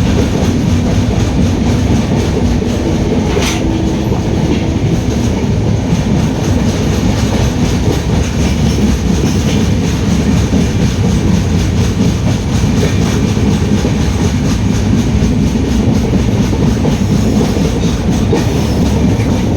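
Indian Railways passenger train running steadily, its wheels on the rails making a constant heavy noise, heard from aboard. A brief sharp sound cuts through about three and a half seconds in.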